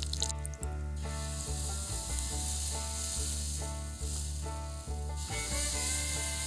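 Pancake batter sizzling in melted butter in a hot cast-iron Dutch oven lid, a steady frying hiss that grows louder about a second in.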